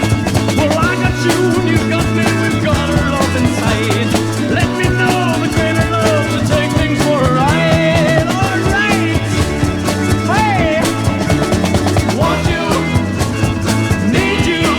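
1960s garage rock record playing: a steady drum kit beat and bass line under a lead line of bending, gliding notes.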